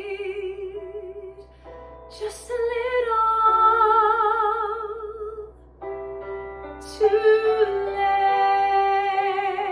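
A woman singing three long held notes with wide vibrato in a classical or musical-theatre style, over a steady sustained accompaniment.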